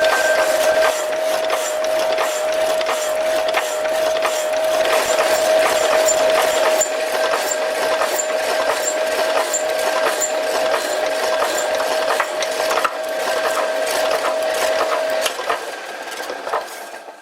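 Small metalworking machine tool running with a steady whine and rapid irregular ticking. Near the end the whine stops and the machine winds down to quiet.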